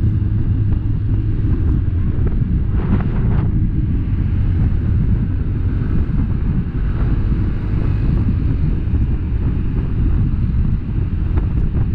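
Wind buffeting the microphone on a moving vehicle, over a steady low engine and road rumble, with a brief hiss about three seconds in.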